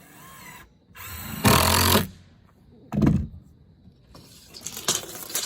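Power drill driving fasteners into poplar floorboards in several short bursts. The longest and loudest burst comes about a second in, and a run of rattly bursts comes near the end.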